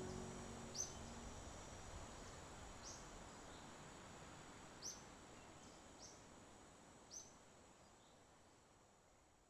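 Faint short, high bird chirps every second or two over a steady hiss, the whole fading out gradually.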